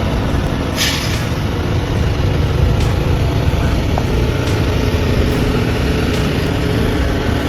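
Heavy truck engine running, a steady low rumble, with a brief hiss of air about a second in.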